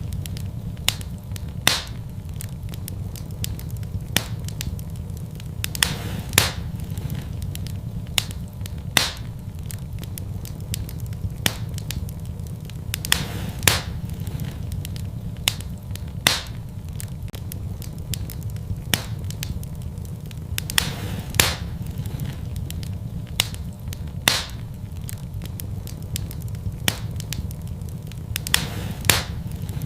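Wood fire burning in a fireplace: sharp, irregular crackles and pops, about one every second or two, over a steady low rumble of the flames.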